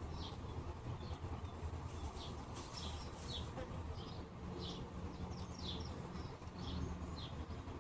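A small bird chirping over and over, short high notes about twice a second, over a low steady rumble.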